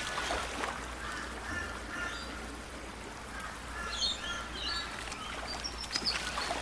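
Birds chirping and calling in short repeated whistles over a steady outdoor background noise.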